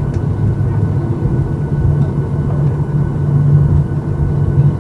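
Steady low rumble of a Boeing 737-800 heard inside the cabin, its engines at idle on the ground after landing, with a faint steady whine above it.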